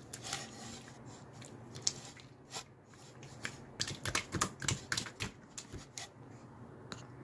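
A quick, irregular run of sharp clicks and light taps, sparse at first and densest about halfway through, over a faint steady hum.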